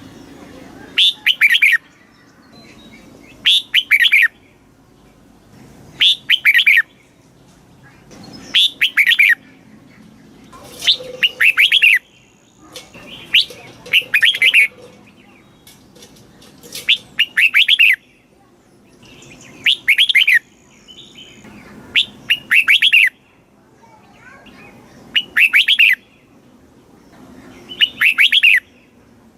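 Red-whiskered bulbul singing its short song phrase over and over, about once every two and a half to three seconds, each phrase under a second long.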